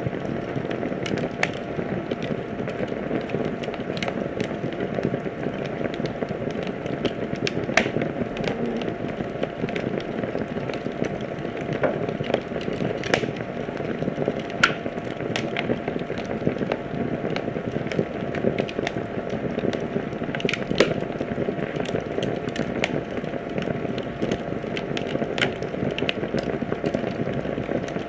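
Wood fire crackling in a fireplace: a steady low rustle of burning with frequent irregular sharp pops and snaps.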